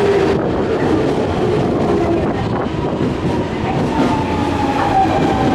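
Nankai electric express train pulling into the station platform, with a steady rolling noise and a motor whine that falls slowly in pitch in the second half as it slows.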